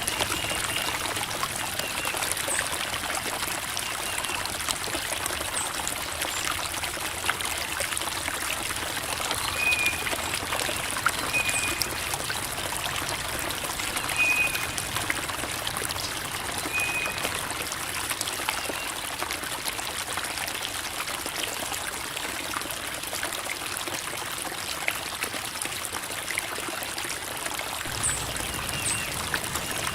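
Creek water babbling and trickling over rocks in a steady, even rush. A few brief high chirps sound near the middle.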